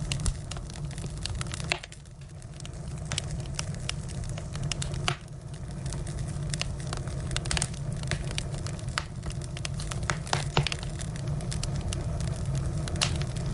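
Firewood burning, crackling with frequent irregular sharp pops over a steady low rumble.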